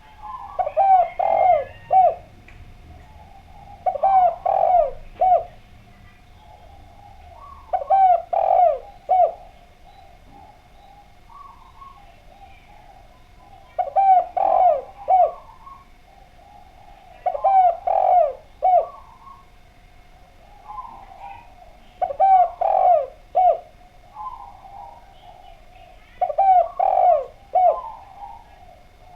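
Spotted dove (derkuku) cooing over and over: a phrase of several coos about every four seconds, seven times, with softer calls between. A faint steady tone runs underneath.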